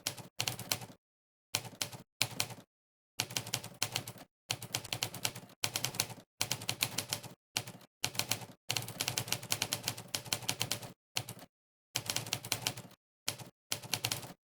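Monkeytype's typewriter keypress sound effect, one clack per keystroke during fast typing: quick runs of clacks broken by short pauses of dead silence.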